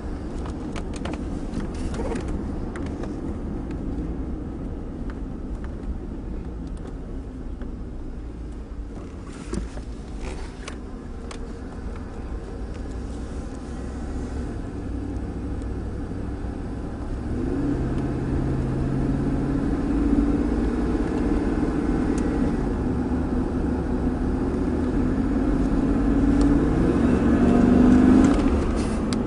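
Pickup truck engine and road rumble while driving. About halfway through, the engine note comes up and climbs as the truck accelerates, getting louder until it drops off near the end as the gas pedal is let up.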